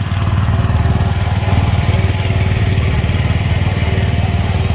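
Small single- or twin-cylinder engine of a Wheel Horse garden tractor running steadily, with a fast, even firing beat.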